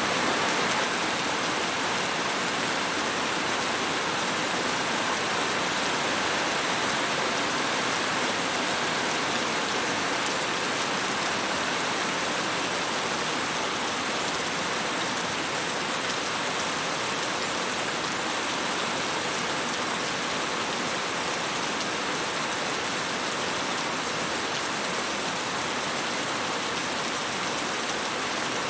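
Steady, even rain falling and pattering on a surface.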